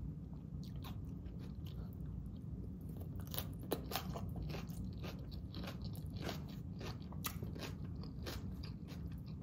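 A person chewing a mouthful of raw salad (romaine lettuce, red cabbage, shredded carrots, onion, cucumber), with irregular crisp crunches.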